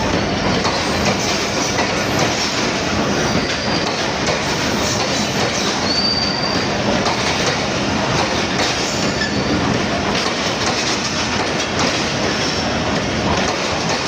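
Passenger train coaches rolling along the platform: steady wheel-on-rail noise, with a brief high wheel squeal about six seconds in.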